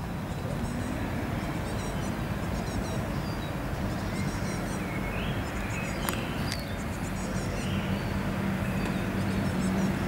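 Small birds chirping in short, high, repeated calls throughout, over a steady low rumble. A low hum grows louder in the second half.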